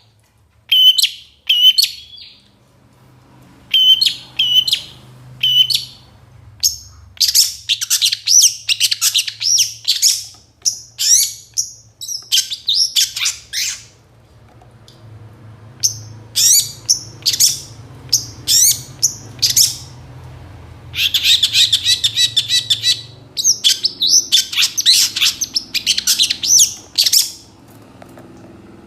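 Long-tailed shrike singing a varied song full of mimicked phrases: short repeated chirps, then longer jumbled runs and a fast chatter in bursts with short pauses between them.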